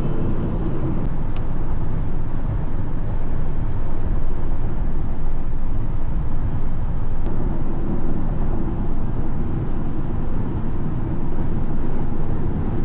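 Steady road and engine rumble inside a Ford Transit van's cabin while driving at speed.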